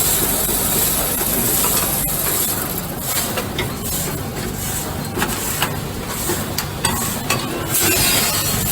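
Coffee filling and packing machine running for doy-pack bags: a steady mechanical hiss and hum broken by sharp clicks of its moving parts.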